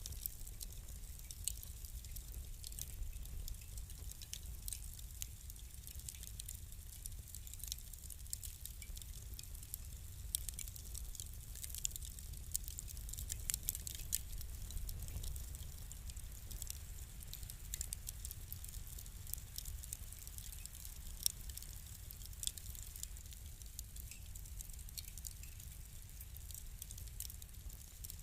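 Fire crackling: a steady scatter of small sharp pops and snaps over a low rumble, with one louder pop about two-thirds of the way through.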